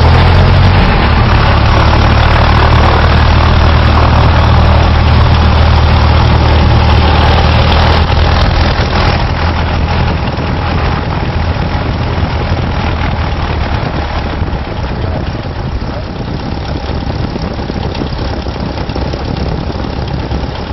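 Cessna 172's piston engine and propeller running as the plane taxis, heard from inside the cabin. A steady, loud drone that eases off about eight to ten seconds in and settles to a quieter, lower-power run.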